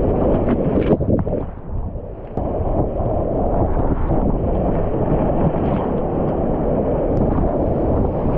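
Steady loud rushing of fast whitewater, with wind buffeting the microphone.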